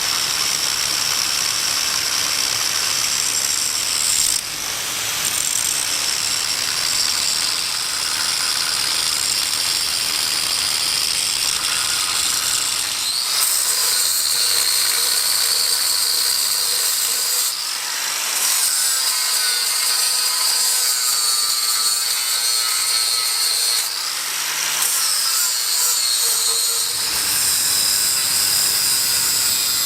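Angle grinder running at high speed and cutting into steel swage blocks, a steady high-pitched whine that dips under load and climbs back several times.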